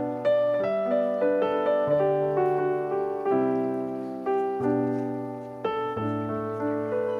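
Background piano music: a slow melody of struck notes, each fading before the next.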